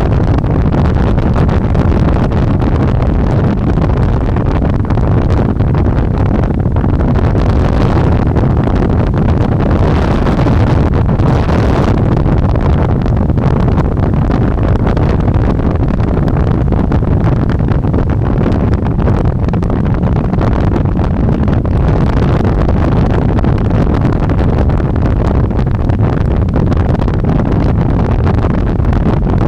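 Wind buffeting the microphone on an electric bike ridden at speed, a steady loud rush heaviest in the low end.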